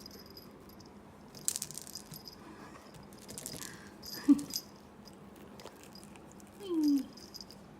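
A cat's rattle-ball toy rattling in three short bouts of shaking, with a brief low vocal sound near the end.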